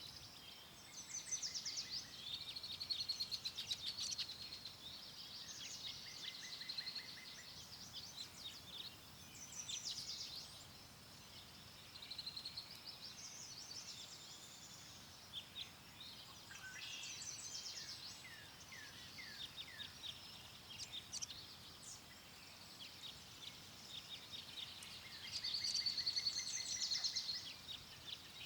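Several songbirds singing and chirping, with overlapping trills and short calls, over a faint steady wind hiss. The song is loudest about three to four seconds in and again near the end.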